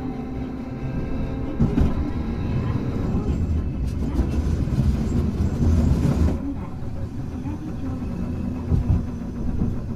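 Hankai Tramway tram car 351 running along the line: a steady low rumble of the wheels and running gear, with a faint motor hum near the start.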